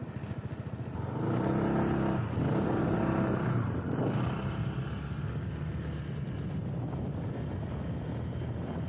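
Motorbike engine running on the road. It revs up about a second in, eases back after about four seconds, then runs steadily.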